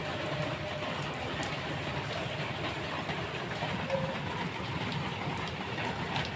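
Steady rain falling outside an open doorway, an even hiss without a break.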